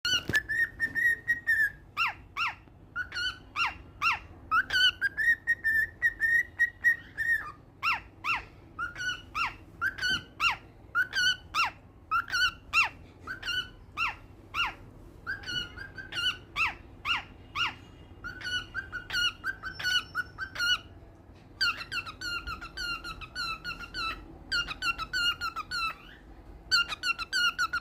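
Pet cockatiel whistling its song. It holds a few long, level notes and many short notes that slide down in pitch, then in the second half runs of fast repeated chirps with brief pauses between them.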